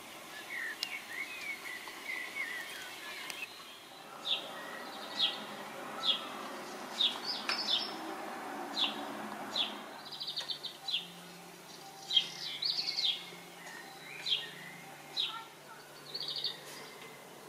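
Wild birds singing: one bird repeats a short, high, downward-sliding note about once a second, with brief rapid trills in between and softer twittering near the start. A soft rushing noise lies underneath for several seconds in the middle.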